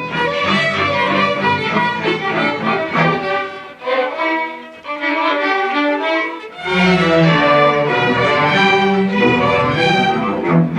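A student string orchestra playing. The low strings drop out for about three seconds in the middle, leaving the violins alone, then come back in strongly.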